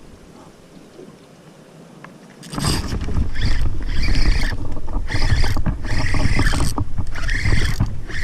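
Strong wind buffeting the microphone, starting suddenly about two and a half seconds in, with a heavy low rumble and choppy, fluttering hiss.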